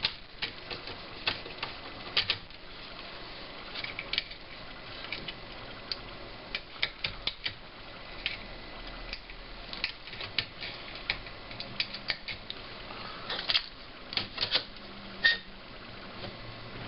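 Irregular clicks and taps of hands reassembling an LCD monitor, its plastic and metal parts knocking and snapping together, a few clicks a second with one louder click near the end.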